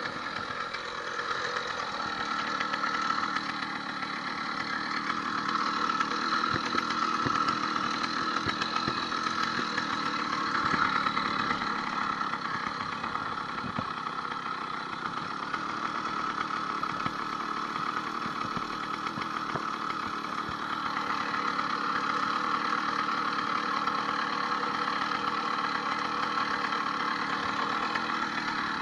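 80cc two-stroke motorized bicycle engine, fitted with an upgraded needle-bearing wrist pin, running steadily, its speed rising and falling a little.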